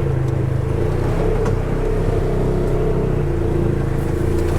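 Polaris side-by-side UTV engine running steadily under way, a constant drone with no change in speed.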